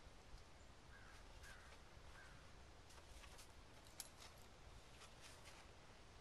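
Near silence, broken by three faint short bird calls in quick succession about a second in, then a few faint ticks, one sharper than the rest, midway through.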